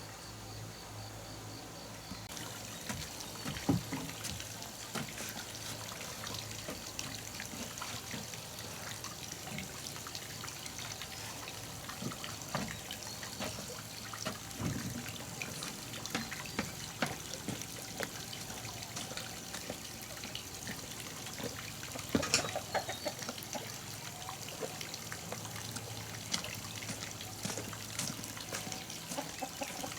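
Water trickling steadily, with a few soft knocks along the way.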